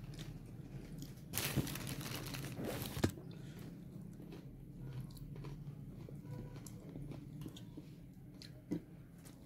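A person chewing and crunching a mouthful of food close to the microphone, loudest in a brief crunchy burst about one and a half seconds in, with a couple of sharp clicks later.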